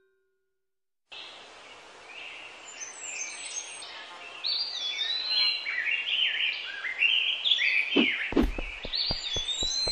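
Birds chirping and twittering over a steady outdoor hiss, starting about a second in after silence and growing busier. A few low thumps near the end.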